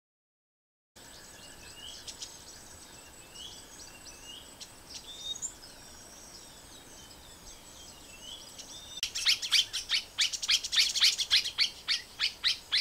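Wild birds calling and chirping, several overlapping, starting about a second in. About nine seconds in, a louder, rapid series of repeated chirps begins, roughly four a second.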